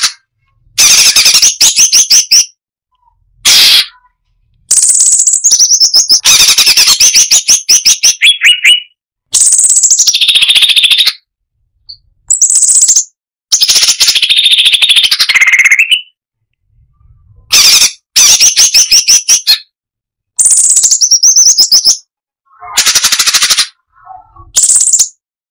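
Cucak cungkok (striated bulbul) singing in loud bursts of rapid, closely packed rattling notes. Each phrase lasts a second or two, with short pauses between phrases.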